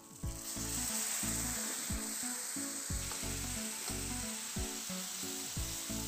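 Boiled white peas sizzling as they hit hot oil and onion-tomato masala in a frying pan, with a spatula stirring, over background music with a steady beat.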